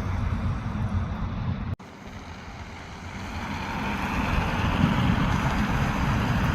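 Steady low vehicle rumble with wind on the microphone, broken off abruptly about two seconds in. It comes back quieter and grows louder over the next few seconds as the train approaches.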